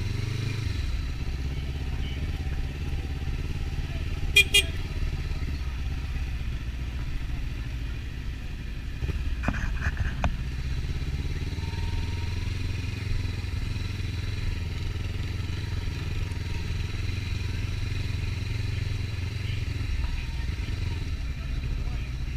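Motorcycle running steadily at cruising speed, heard from an onboard camera, with a couple of short sharp clicks about four and ten seconds in.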